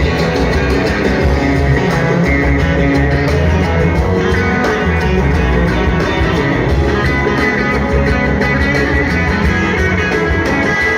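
Live rock band playing, with guitar to the fore over a steady bass and drum backing.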